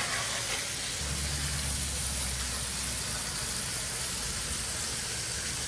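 Steady hiss of burger patties frying on a flat-top griddle, with a low hum for about two seconds starting a second in.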